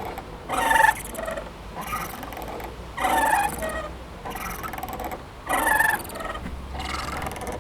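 Playground swing squeaking rhythmically as it goes back and forth, one short squeak about every 1.2 s, every other one louder.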